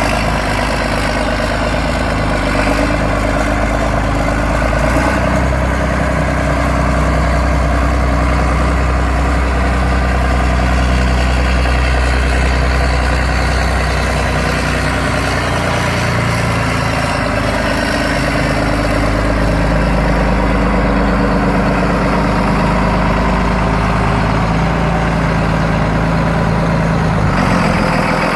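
John Deere 8430 tractor's six-cylinder diesel engine running steadily at a low speed, its pitch shifting slightly a few times.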